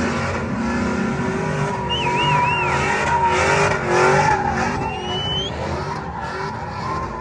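Vehicle engine running loud with tyres squealing in wavering, rising screeches, as in a burnout.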